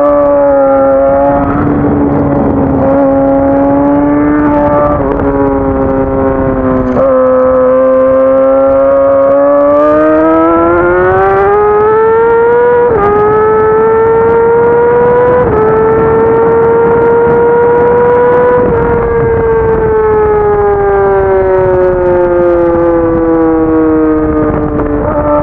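Racing motorcycle's engine heard onboard at speed, with wind rush over the bike: a steady high note, then it climbs through the gears with two quick upshifts about halfway through, each a short dip in pitch, holds, and falls away slowly near the end as the bike slows.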